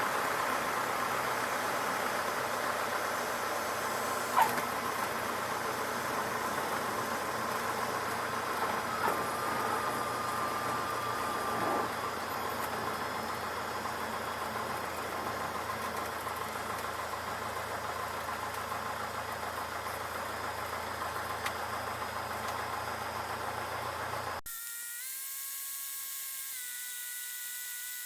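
Steady cockpit noise of a Cessna 152 in flight: engine hum under an even hiss. About 24 seconds in, the sound cuts off abruptly and is replaced by a steady electronic buzz of several held tones.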